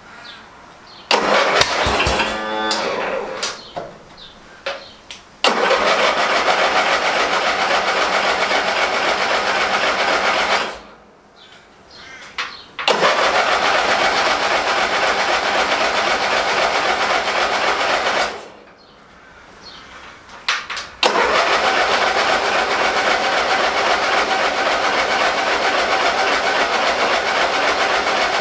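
Ride-on mower's 12 horsepower engine being cranked over four times, a short choppy try and then three steady cranks of about five seconds each with pauses between, without catching: fuel has not yet reached the carburettor.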